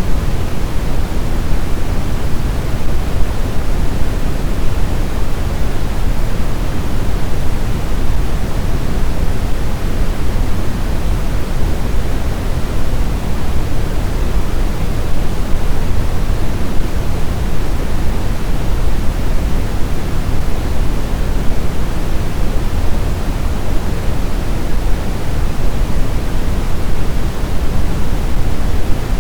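Snowstorm wind: a deep, even rush of noise that holds steady, with no gusts or whistling.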